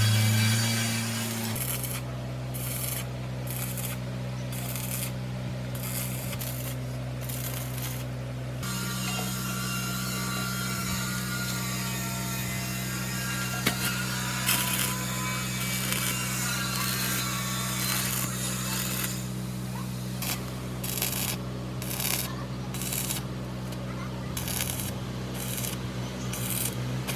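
A steady machine hum runs under repeated short scraping or rubbing strokes of metal-working tool work. The strokes come in two spells, with a more even grinding-like stretch between them.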